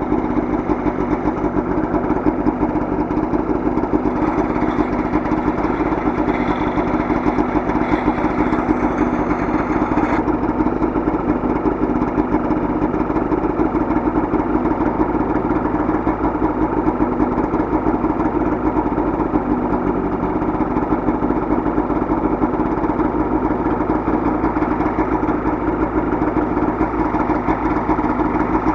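The 550 two-stroke engine of a 2009 Polaris Trail Touring snowmobile idling steadily after its cold start, running evenly and sounding healthy.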